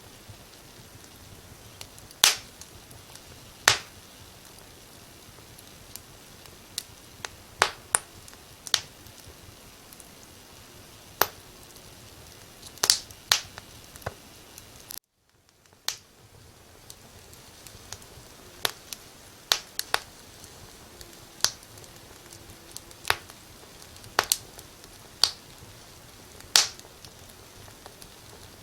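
Wood fire crackling: sharp, irregular pops every second or two over a faint steady hiss. About halfway through, the sound cuts out for a moment and then fades back in.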